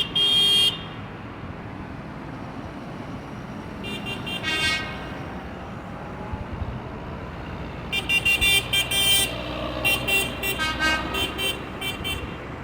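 Tractor horns honking in short toots over the steady rumble of engines: a toot at the start, another about four seconds in, then a quick run of repeated toots from about eight seconds on.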